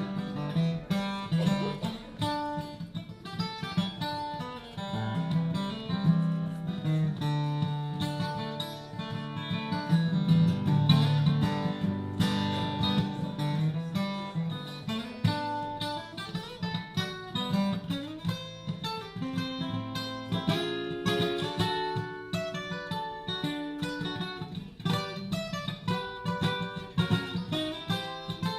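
Acoustic guitar playing an instrumental break between verses of a folk song: quick plucked notes mixed with strums, with no singing.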